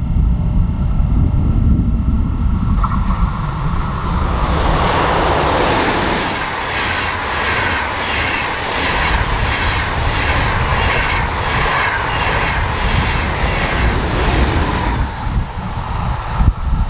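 A train passing at speed on a mainline: it rises as it approaches, then its wheels clatter in an even beat of about two strokes a second for several seconds before it fades. Wind rumbles on the microphone throughout.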